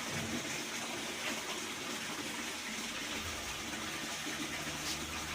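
Water running into a Whirlpool washing machine's tub as it fills, a steady rush; a low hum joins about three seconds in.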